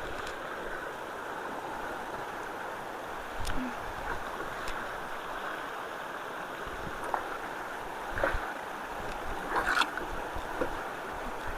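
Water rushing steadily out of a culvert's outlet as it flows again after being unclogged, flushing debris through. A few short knocks sound over it.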